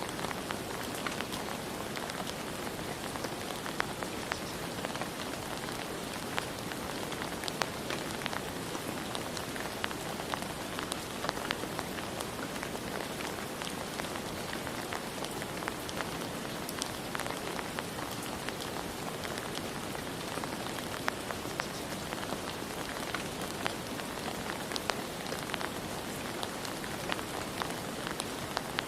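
Steady rain falling on a surface, an even hiss dotted with the sharper ticks of single drops hitting.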